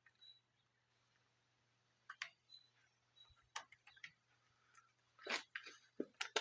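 A few faint, scattered clicks and knocks of tools and gear being handled, over a faint steady low hum; the hammer drill is not running.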